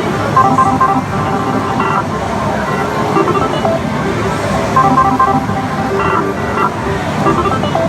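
Pachislot parlor din: a constant wash of many slot machines' electronic beeps and jingles over a steady roar of hall noise.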